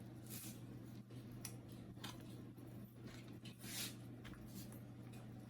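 Faint clicks and short scrapes of small plastic and metal printer parts being handled with tweezers as a fuser-unit lock and its spring are worked free, over a steady low hum.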